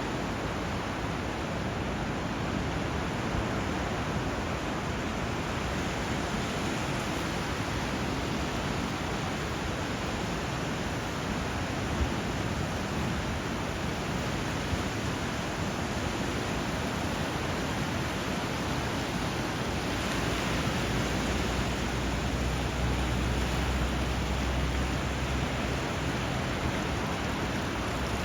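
Steady rushing of water where a river flows into the sea, an even hiss with no birdsong standing out. A deeper rumble swells for several seconds about two-thirds of the way through.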